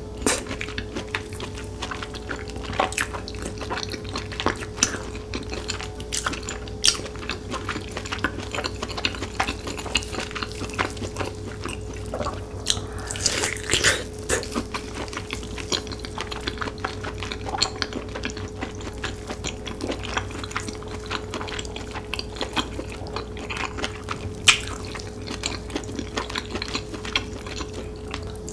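Close-miked wet chewing and lip-smacking of smoked pork belly in melted cheese sauce: a steady run of small sticky clicks and squelches, with a louder stretch about halfway through.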